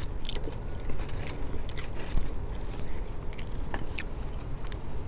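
Close-miked chewing and biting of a loaded chicken burrito: irregular wet clicks and crackles of the mouth working the food. A low steady rumble runs underneath.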